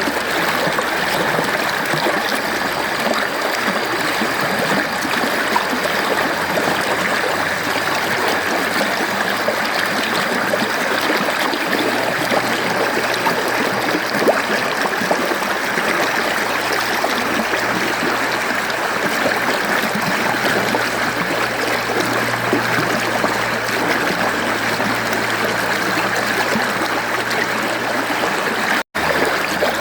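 Mountain stream flowing steadily, a continuous even rush of water. The sound drops out for a split second about a second before the end.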